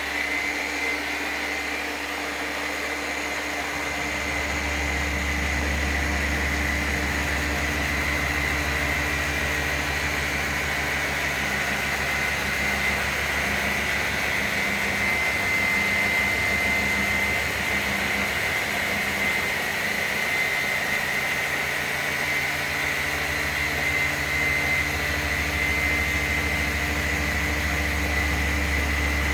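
Electric polisher running steadily with a diamond grit pad, wet-polishing a marble top: a steady high whine over a low hum, starting up just as the sound begins.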